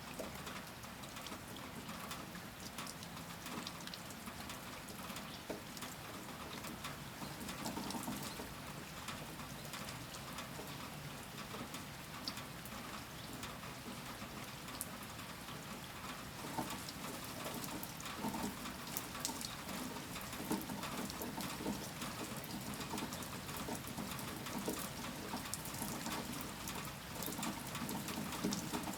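Steady rainfall, an even hiss of rain with many individual drops ticking on surfaces.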